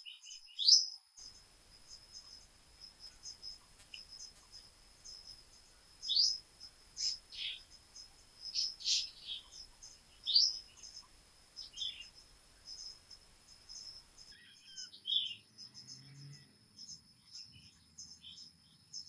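Birds chirping in short, sharp calls, several sweeping downward in pitch, over a steady high-pitched tone.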